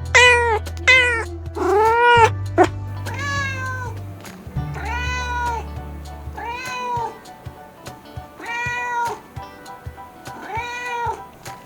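Domestic cat meowing over and over, about eight or nine meows, each rising and falling in pitch, over background music.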